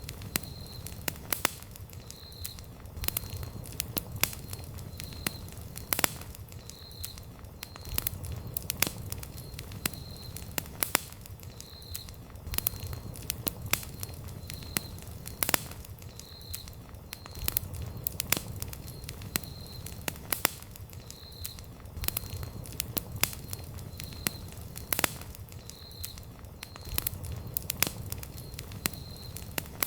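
Wood campfire crackling, with sharp pops scattered irregularly over a low, steady rumble of the flames.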